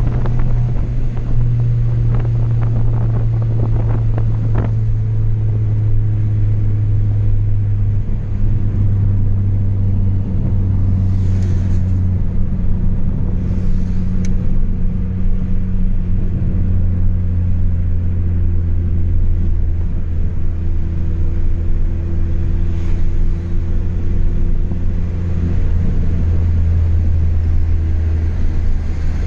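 Chevrolet Astra 2.0's four-cylinder engine running through a straight-through exhaust with no muffler, giving a steady deep drone while cruising. The pitch drifts gently up and down as the revs change, with some crackling in the first few seconds.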